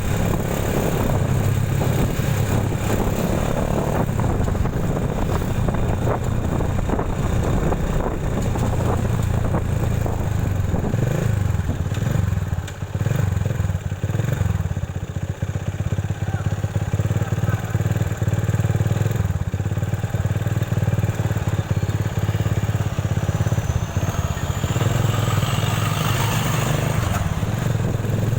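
Motorcycle engine running steadily while riding, a low rumble throughout. A thin, high whine rises in pitch near the end.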